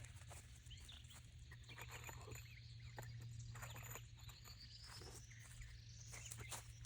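Near silence: faint outdoor ambience with a low steady hum, scattered small clicks and faint chirps.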